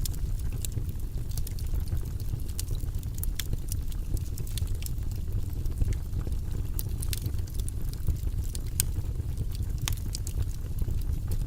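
Wood fire burning in a fireplace: a steady low rumble of flame with frequent sharp crackles and pops at irregular intervals.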